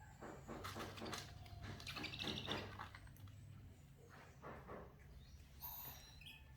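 Baby owl (owlet) giving brief, high, chirping calls among rustling and clicking handling noises, over a faint low hum.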